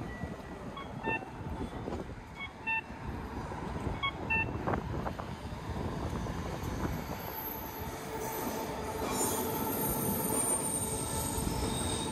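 A Vancouver SkyTrain (Expo Line) train running on the rails with a steady rumble, a few short beeps in the first few seconds. From about two-thirds of the way in, a high whine joins the rumble and grows.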